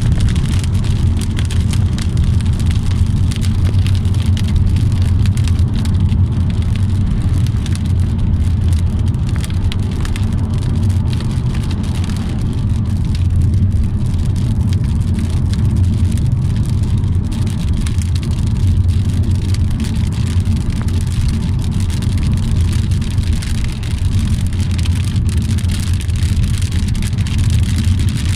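Rain falling on a car, heard from inside as a dense scatter of drop ticks over a steady low rumble of the vehicle.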